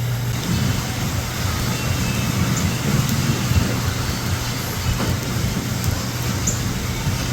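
Steady road-vehicle noise: a low engine hum under a continuous traffic rumble.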